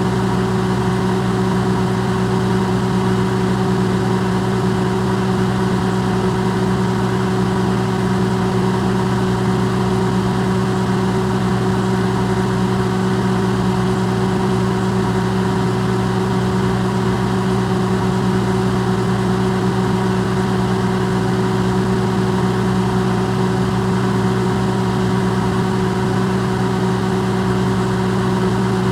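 Electrolux microwave oven running, recorded close and amplified: a steady, unchanging hum with a noise hiss over it.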